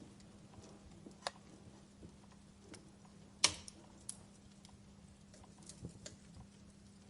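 Fire crackling: scattered snaps and pops, the loudest a sharp pop about three and a half seconds in, over a faint steady low hum.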